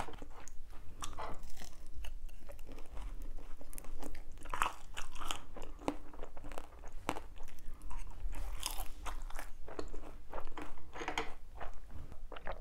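A person chewing crunchy food close to the microphone, with repeated crisp crunches.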